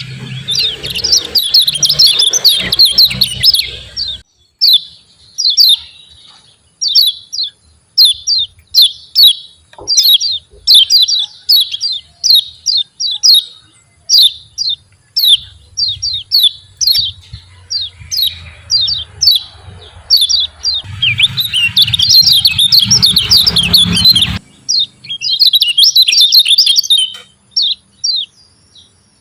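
Kecial kuning (Lombok white-eye) giving its 'ciak ciak' call: a long run of short, sharp chirps, a few a second. Two dense chattering bursts come at the start and about two-thirds through.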